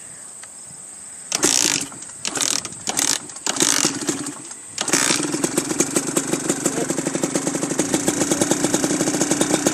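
Kawasaki dirt bike engine being kick-started with the clutch held in: several kicks with sputtering, then it catches about five seconds in and keeps running with a rapid, even beat.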